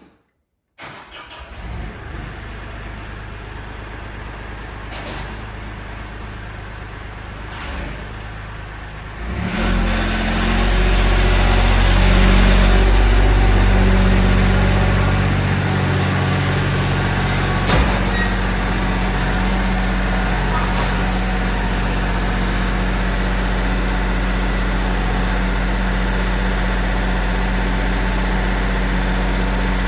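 Tractor engine running, its speed raised about nine seconds in, then holding steady at the higher speed.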